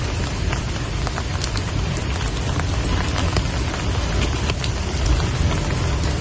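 Steady rain falling, with many separate drops ticking on a surface over an even hiss and a low rumble underneath.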